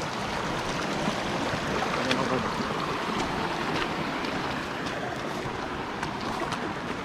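Shallow stream water rushing steadily, with a few faint clicks.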